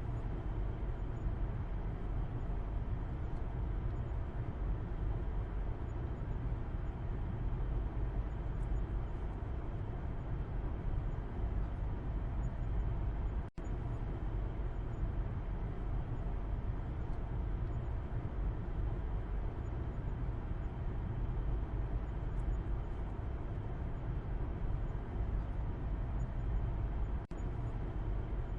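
Steady road and engine rumble inside a moving car's cabin, heard from the back seat. The sound cuts out for an instant about halfway through and dips briefly again near the end.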